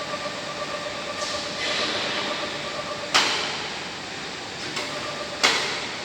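Heavy-industry work noise during propeller-blade removal: a steady machinery hum with a faint steady tone, and two sharp bangs a little over two seconds apart, each trailing off over about half a second.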